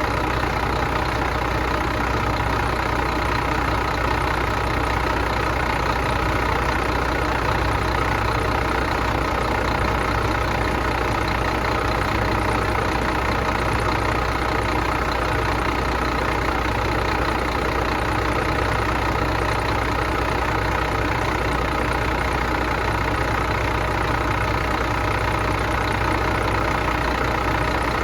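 Detroit Diesel engine running steadily, on and on at one even speed, while it is being run to destruction.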